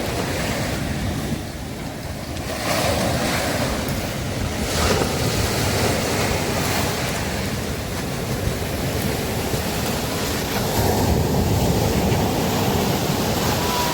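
Sea waves breaking and washing on a beach: continuous surf that swells as waves break, about three seconds in, around five seconds in, and again from about eleven seconds, with wind on the microphone.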